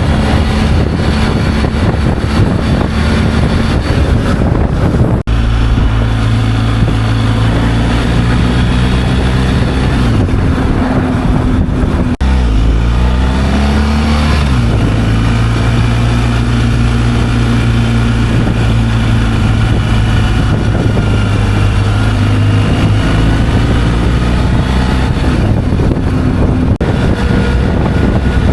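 Motorcycle engine running on the road, with heavy wind noise on the microphone. The engine note breaks briefly about five seconds in and again about twelve seconds in, then rises after the second break.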